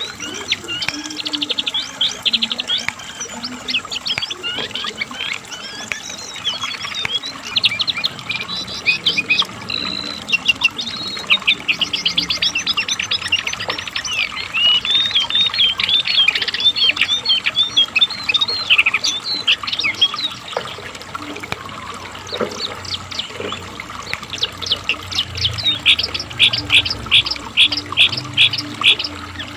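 Cingcoang (jongkangan) singing in continuous fast, chattering phrases of high notes. Near the end it breaks into a quick run of evenly repeated notes, about four a second.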